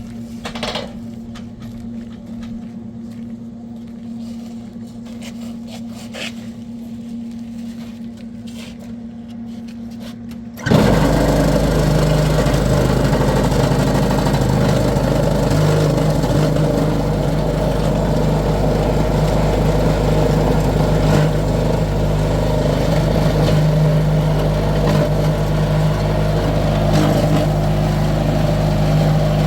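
A motor vehicle's engine running steadily. About a third of the way in, the sound jumps abruptly from a quieter steady hum to a much louder engine.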